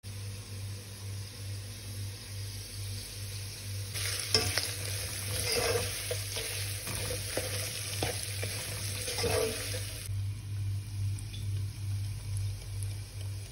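Chicken pieces sizzling in hot oil in a non-stick pan while a plastic slotted spatula stirs them, scraping and tapping against the pan. The sizzling and stirring are loudest from about four seconds in to about ten seconds in, then settle to a quieter sizzle. A steady low hum runs underneath.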